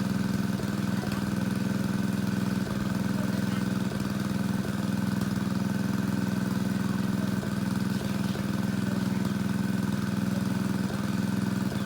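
Engine of a water pump draining a pond, running with a steady, unchanging drone.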